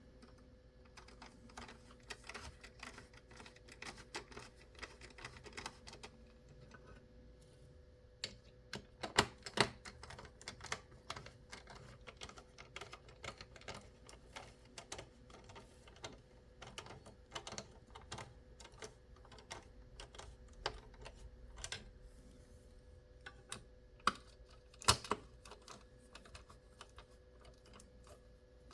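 Irregular light clicking and tapping of small hard parts being handled and worked, with a few louder clicks, over a faint steady hum.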